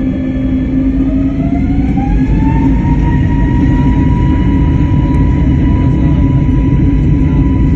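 Jet airliner engines spooling up to takeoff power: a whine that rises in pitch over the first three seconds, then holds steady over a loud, continuous low rumble.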